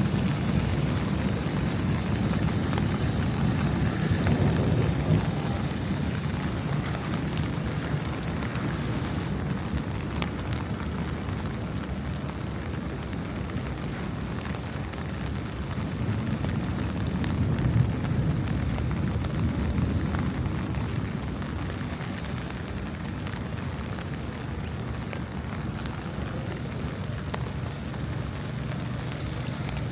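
Steady rain falling, with a low rumble underneath that swells twice, about four seconds in and again about eighteen seconds in.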